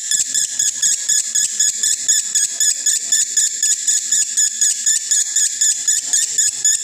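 Male lovebird in breeding condition singing a continuous 'konslet' chatter: an unbroken, even run of shrill chirps, about five a second.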